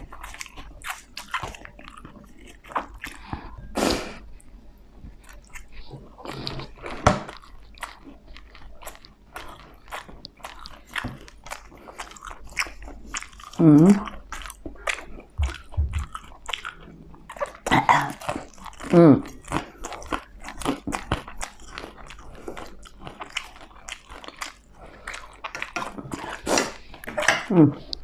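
Close-miked chewing and biting of crispy food, with many small crunches throughout. A few brief vocal sounds come from the eater.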